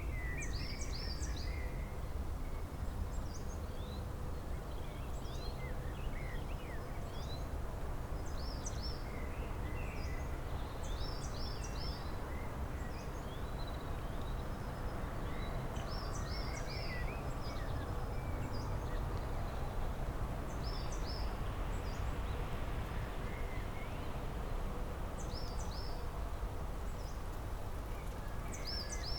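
Songbirds chirping: one bird repeats a short phrase of three or four quick high notes every few seconds, with other scattered chirps around it, over a steady low rumble of outdoor background noise.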